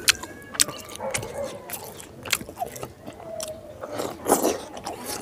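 Close-miked eating sounds of a man eating rice and pork curry by hand: chewing with frequent sharp lip-smacks and mouth clicks, and a louder, longer burst about four seconds in as a handful goes into his mouth.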